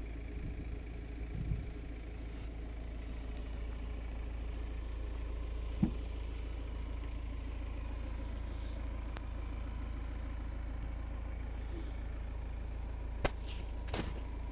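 DS 7 Crossback's engine idling steadily, with a sharp click about six seconds in and two more near the end.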